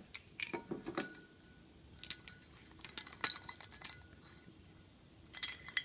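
Light clinks, taps and rattles of hard objects being handled and set down, a few with short ringing notes.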